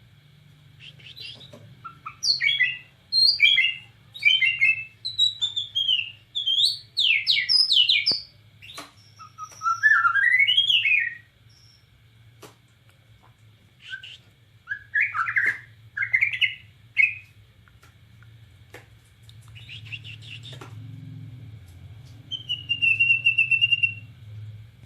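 White-rumped shama (Bornean murai batu) singing vigorously: bursts of varied, rapid whistled phrases with sharp notes and sliding glides, broken by pauses of a second or two, and a high trill near the end. A faint low hum runs underneath.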